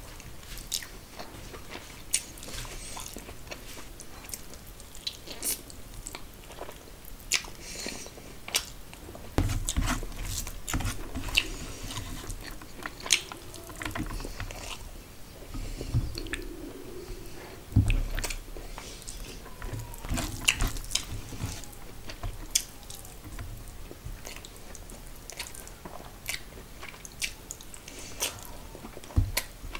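Close-up chewing and wet mouth sounds of someone eating rice and curry by hand, with many short smacking clicks throughout. A few dull thumps come near the middle.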